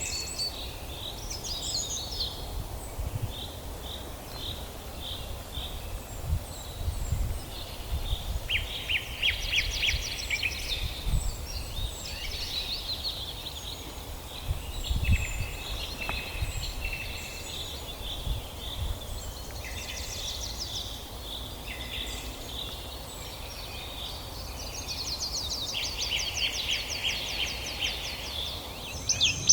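Several songbirds chirping and singing at once, with short repeated notes and fast trills, the longest trills about a third of the way in and again near the end, over a steady low rumble.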